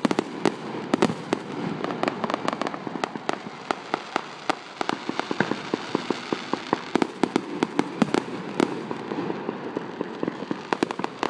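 Aerial fireworks display going off: a rapid, irregular run of sharp pops and crackles over a steady background of bursts, thickest in the second half.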